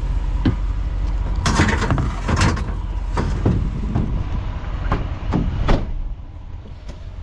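Vehicle engine running with a steady low drone, overlaid by several sharp knocks and clunks, the heaviest about one and a half to two and a half seconds in; the drone drops lower about six seconds in.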